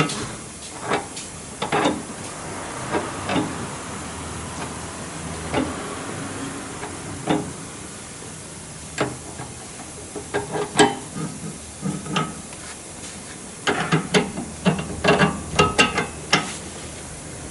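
Hand tools clinking and knocking on metal vehicle parts during repair work: irregular sharp clanks, some with a brief metallic ring, coming thick and fast near the end, over a steady hiss.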